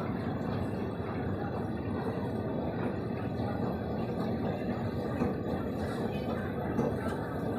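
Steady background din of a metro station, with a few faint clicks.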